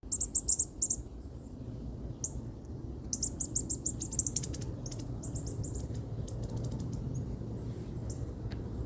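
Baby bird cheeping: quick runs of short, very high-pitched chirps, loudest in the first second and again about three to four seconds in, then fainter and sparser. A steady low hum runs underneath.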